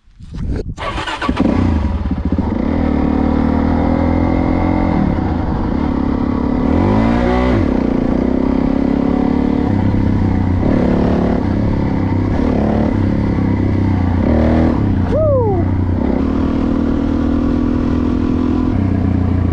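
Dirt bike engine starting up about a second in, then running, with a rise and fall in revs around seven seconds in and more blips of the throttle later. A short high tone slides down in pitch around fifteen seconds in.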